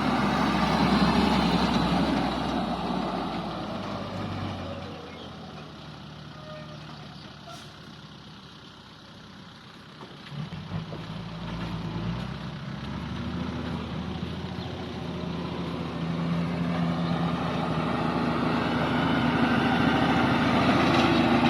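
Dump truck engines running. One fades away to its quietest about halfway through, then an engine sound builds up again and is loud near the end.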